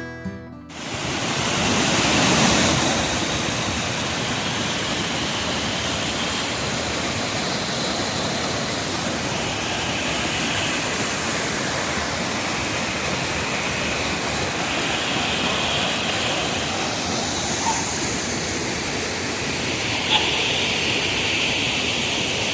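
Waterfall: a steady, full rush of falling and splashing water that starts suddenly just under a second in, as acoustic guitar music cuts off.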